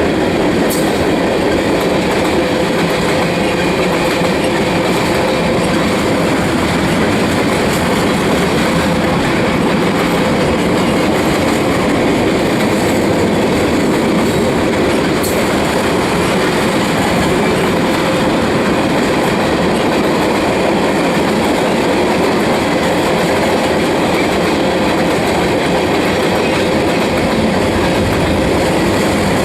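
Freight cars of a Union Pacific manifest train rolling past: a steady, loud rumble of steel wheels on rail with faint clicks of wheels over the track.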